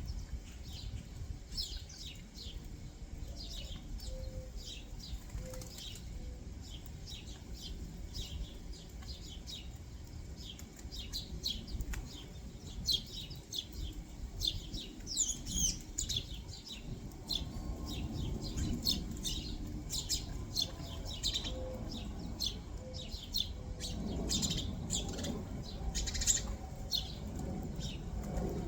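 Backyard songbirds chirping in many short, rapid high notes, joined twice by a brief run of three or four low, soft cooing notes, over a low background rumble.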